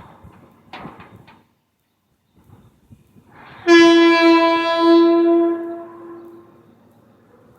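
Diesel locomotive's air horn sounding one long, steady blast of about three seconds, starting about halfway in, over the low rumble of the passing train.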